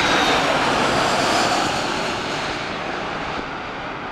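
Airliner engines on landing approach passing close by, a loud rushing noise that is strongest in the first second or two and then slowly fades as the aircraft moves away.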